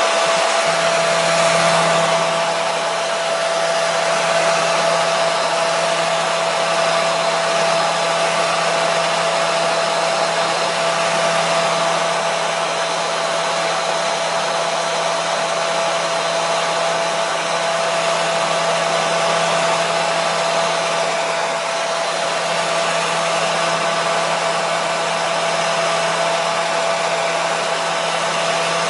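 Hair dryer running steadily: an even rush of blown air with a constant motor whine and hum underneath, unchanging throughout.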